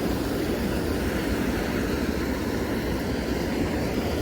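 Steady, even noise, strongest in the low range, with no distinct events.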